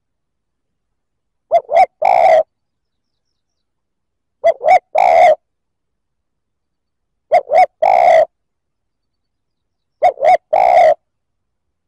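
Spotted dove cooing: four repeats of the same three-note phrase, two short coos and one longer coo, about every three seconds with dead silence between. A decoy call used to lure wild doves.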